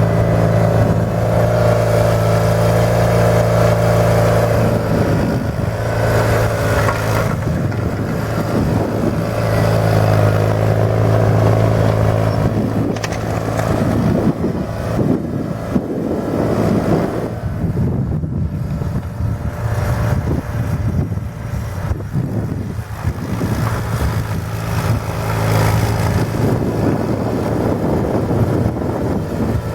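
John Deere 420 garden tractor's engine running at a steady speed as it plows snow, with rougher, noisier stretches in the middle where the steady tone fades under other sound.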